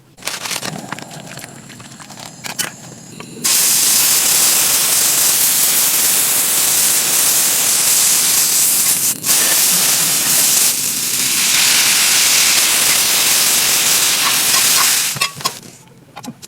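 A loud, steady hiss that starts abruptly a few seconds in, dips once briefly, and cuts off shortly before the end. Light clicks and rattles come before it.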